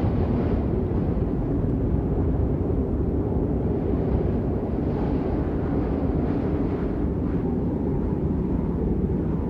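Steady rain, heard as a deep, even wash of noise with no single drops standing out.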